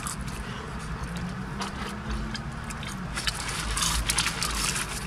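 Close-up eating sounds: chewing and crunching of a burger and fried food, with many small clicks and some wrapper crackle, over a steady low hum.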